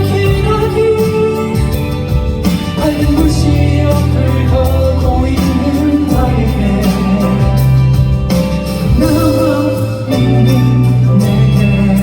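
Live performance of a ballad with singing over guitar and band accompaniment, the voice holding long notes.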